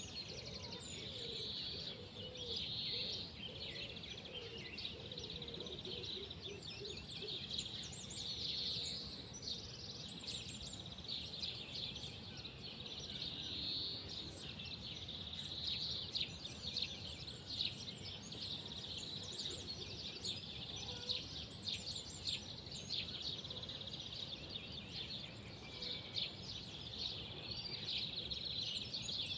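Many small birds chirping and trilling without a break, over a steady low background rumble.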